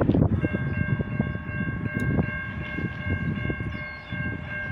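Locomotive air horn sounding one long, steady chord, beginning about half a second in, over the low rumble of a slow-moving freight train.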